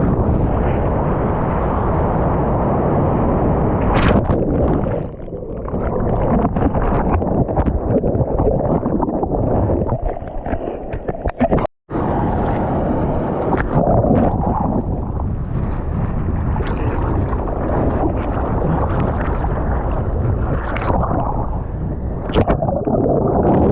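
Surf water rushing and splashing with wind buffeting the microphone of a GoPro in the waves, with a few sharp splashes. The sound drops out to silence for a split second about halfway through.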